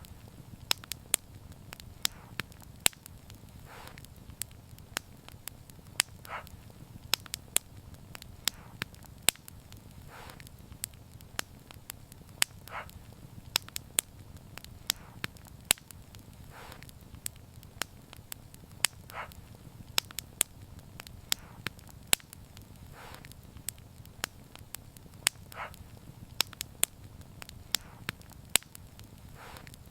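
Wood fire crackling: frequent sharp pops and snaps of uneven loudness over a low steady rumble of burning.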